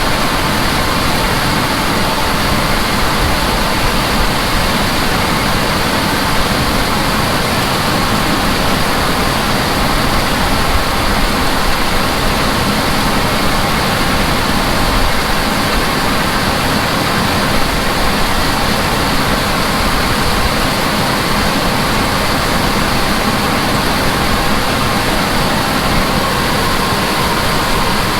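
Heavy harvest machinery running steadily under load: a loud, even mechanical rush with a faint steady hum.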